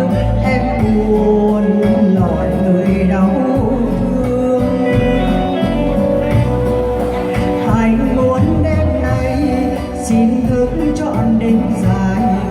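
A song: a singer's voice over instrumental backing music, with a bass line pulsing underneath.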